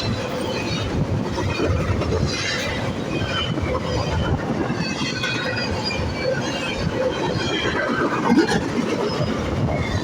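Freight train rolling past: a steady rumble of wheels on rail with scattered short, high-pitched wheel squeals.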